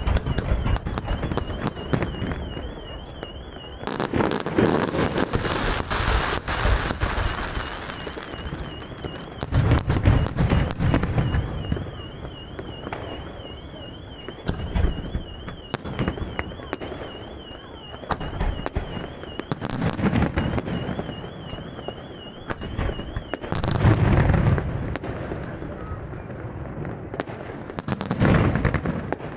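Aerial fireworks shells bursting in a display, deep booms followed by crackling, with the biggest bursts about 4, 10, 20, 24 and 28 seconds in. A warbling high tone sounds underneath and stops about three quarters of the way through.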